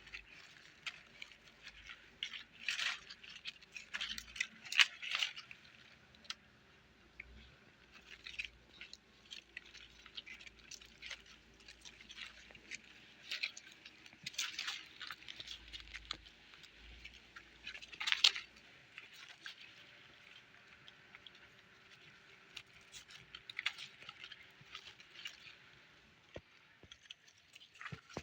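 Puppies moving about, their claws and bodies making light, irregular scratching, clicking and rustling, with louder flurries now and then.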